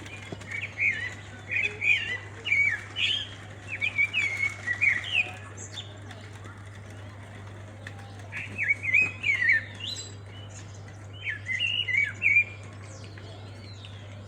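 A songbird singing: quick, jumping chirp notes in three spells, a long one near the start and two shorter ones later.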